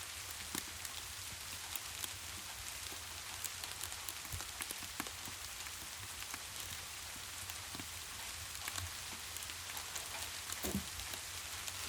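Steady rain, an even hiss dotted with many small sharp ticks of drops, over a faint low rumble, with one soft low knock about eleven seconds in.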